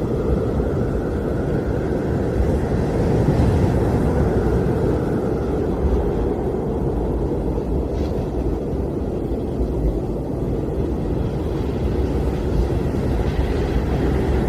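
Blizzard wind blowing steadily, mostly a low rumble, with a faint higher whistle over the first few seconds.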